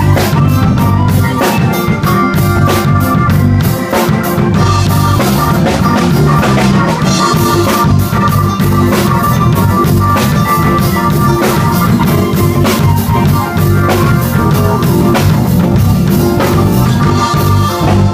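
Live blues band playing loudly, with a steady drum-kit beat under organ and guitar.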